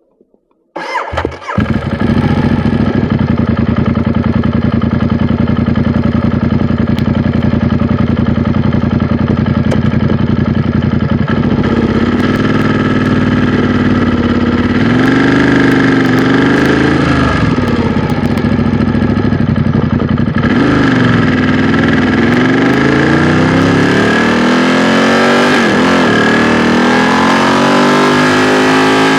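A 2016 Ducati XDiavel S's 1262 cc L-twin engine being started about a second in, catching quickly and then idling steadily. From about 12 s the throttle is blipped, and after about 20 s the pitch rises in repeated sweeps as the bike pulls away and accelerates.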